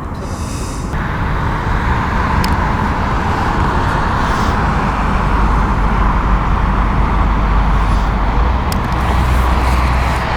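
Boeing 777 freighter's GE90 turbofan engines running at taxi power: a steady rushing jet noise over a deep rumble, growing louder over the first few seconds as the aircraft taxis closer.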